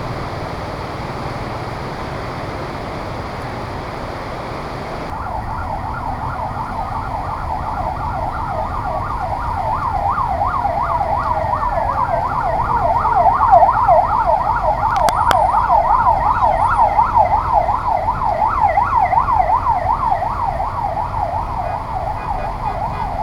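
Emergency vehicle siren with a fast warbling yelp, about three rises and falls a second, that starts about five seconds in, grows louder to a peak midway and then fades as it passes. Steady street noise lies beneath.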